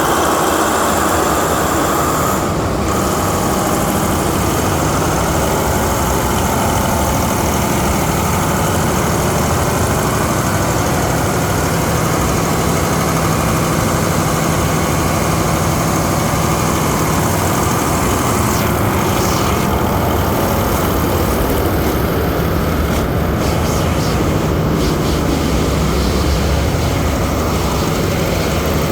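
MTU 20V4000 G63L 20-cylinder diesel generator engine running steadily and loudly at an even speed.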